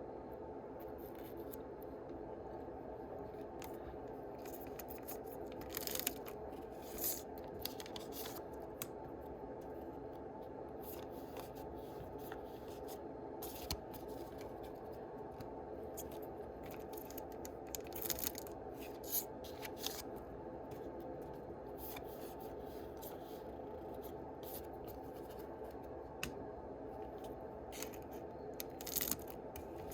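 Yu-Gi-Oh booster packs being opened and the cards handled by hand: short rustling, tearing and sliding sounds coming every second or so, over a steady low hum.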